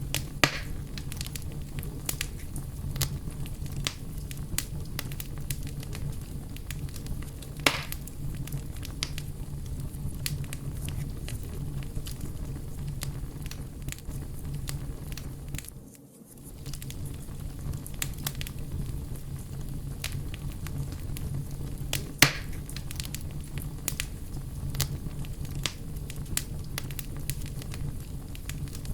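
Bonfire burning with a steady low rush of flame and constant crackling of burning wood, broken by a few louder sharp pops. The sound dips away briefly about halfway through.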